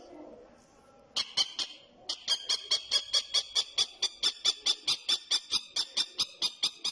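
Common kestrel calling a rapid, sharp, high-pitched series of 'kee-kee-kee' notes, about four a second, starting with three calls about a second in and then running on without a break.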